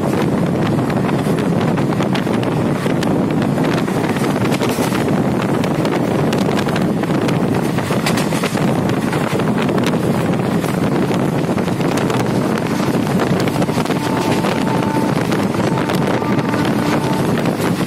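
Steady running noise of a moving train, with wind buffeting the microphone and many small clicks and rattles throughout.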